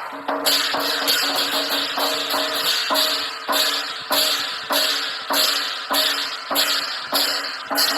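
Chinese lion dance percussion music: drum and crashing cymbals in a steady beat of about two strikes a second.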